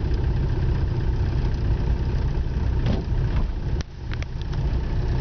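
Car engine running steadily with a low rumble; about four seconds in the level briefly drops and a few sharp clicks sound.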